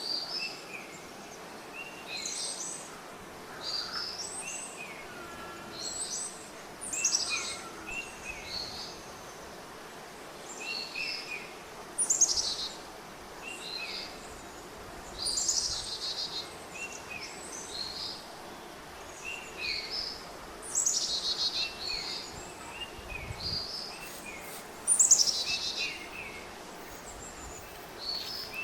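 Birds singing and calling: short high chirping phrases repeat every second or two, and a few louder, high descending phrases stand out, over a steady outdoor background hiss.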